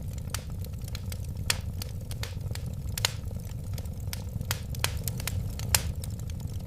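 Wood fire burning with a steady low rumble of flames and irregular sharp crackles and pops, a few louder snaps among many small ones.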